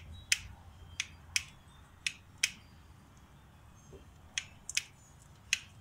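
Hand-pumped grease gun forcing grease into a mower deck spindle's grease fitting: a series of sharp clicks from the gun's lever, several in pairs. The spindle has not yet filled to the point of pushing grease out.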